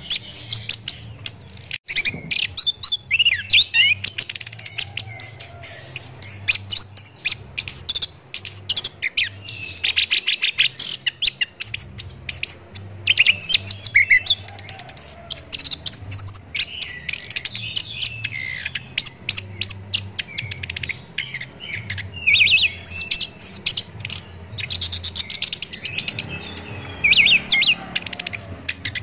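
Chestnut-capped thrush (anis kembang) singing a long, varied song of rapid trills, chirps and whistled phrases, with only short pauses.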